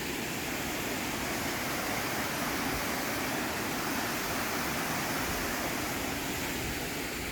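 Steady rush of water flowing out of a dam, an even hiss-like roar with no breaks.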